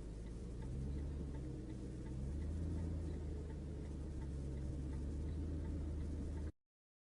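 Steady low drone of a vehicle engine heard from inside the cab, with a faint regular ticking about twice a second. It cuts off abruptly near the end.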